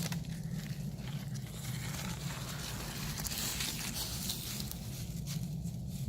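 Irregular crunching and rustling, strongest about two to five seconds in, over a steady low hum.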